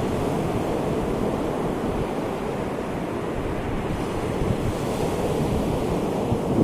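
Ocean waves breaking and washing in steadily, with wind buffeting the microphone.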